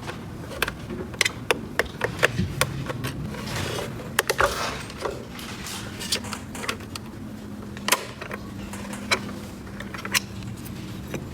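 Small hard plastic toy pieces clicking and tapping as they are handled: irregular sharp clicks, closely spaced for the first few seconds and sparser after, over a faint steady hum.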